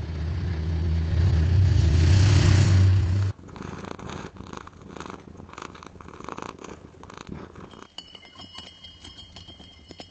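A cat purring, a loud low rumble that cuts off suddenly about three seconds in. Softer scattered clicks follow, and a faint high steady tone comes in near the end.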